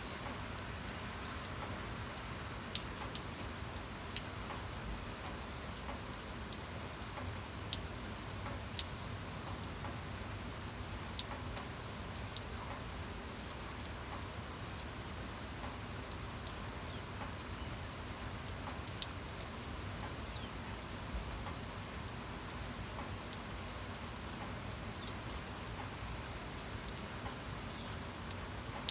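Steady rain, with many scattered single drops ticking sharply against a surface.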